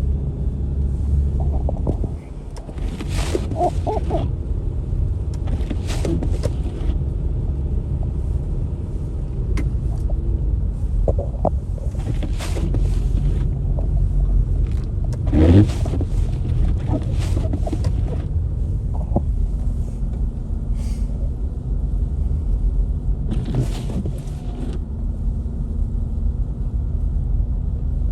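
Steady low rumble of car traffic on a highway in snow, with a brief hissing swish every couple of seconds and a louder one about halfway through.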